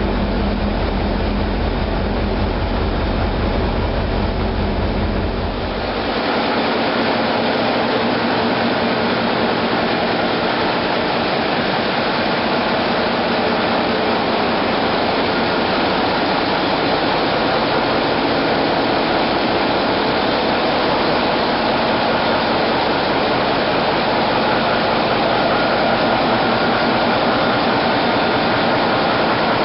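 Ship's engine-room diesel machinery running steadily and loudly. A deep pulsing part of the noise cuts out suddenly about six seconds in, leaving a steady higher din.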